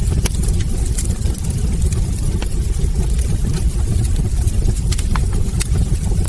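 Wood fire burning in a fireplace: a steady low roar of flames with frequent sharp crackles and pops from the logs.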